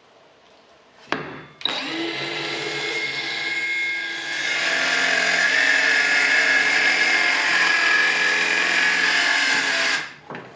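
Handheld electric saw starting up about a second and a half in and running steadily, then growing louder as the blade cuts through wood, freehand, to make a trim strip. It is switched off near the end and winds down.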